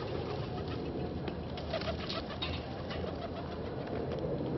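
A bird calling over steady outdoor noise, with a few soft clicks about halfway through.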